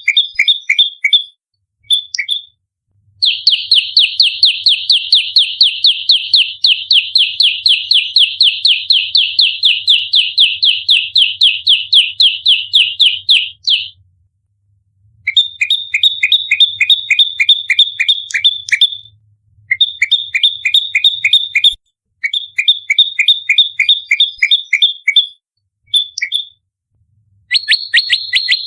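Prenjak lumut prinia singing its rapid, tightly repeated fighting song: fast runs of sharp chirping notes, about four or five a second, the longest lasting about ten seconds, with short pauses between runs.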